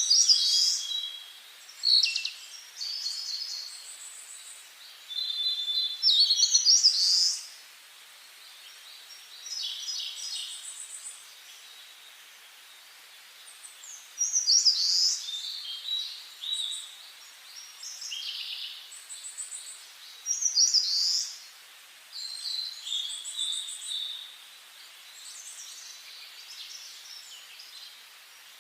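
Songbirds singing: short, high phrases of chirps and trills that come and go, with a lull of a few seconds in the middle, over a faint steady outdoor hiss.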